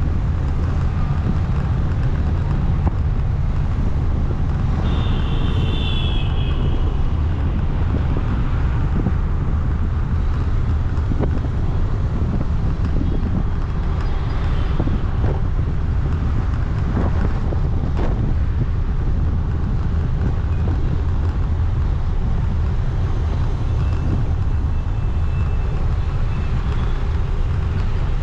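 Motorcycle riding through city traffic: a steady engine and road rumble with wind on the microphone. A brief high-pitched tone cuts through about five seconds in.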